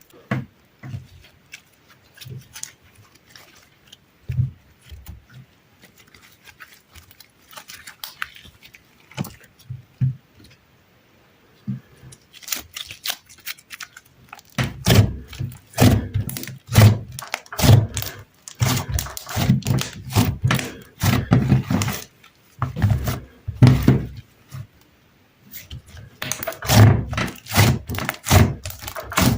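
Sticky slime being squeezed and pressed, making wet popping and crackling clicks over soft low thuds. The clicks are sparse at first and become dense and continuous from about halfway.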